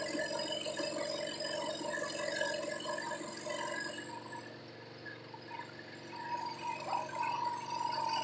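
Scroll saw running, its reciprocating blade cutting, with a steady motor hum and fast even pulsing. It dips somewhat quieter in the middle and comes back up toward the end.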